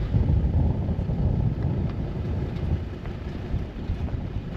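Wind buffeting the microphone: an uneven, gusty low rumble that comes up suddenly at the start and eases off somewhat in the second half.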